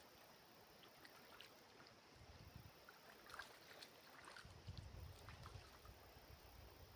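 Near silence: faint riverside ambience with soft water sounds, a few light scattered ticks and a low rumble that comes and goes.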